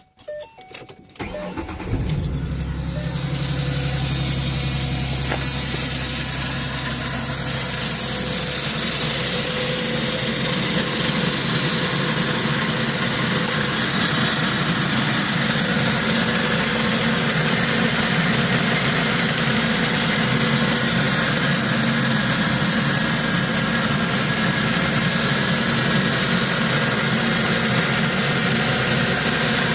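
2010 Ford Mustang's 4.0-litre V6 cranked on the starter and catching about two seconds in, then running at a steady cold idle with a loud, metallic noise over the engine sound. The owner suspects the lifters; the noise comes only from a cold engine that has sat for hours and fades as it warms.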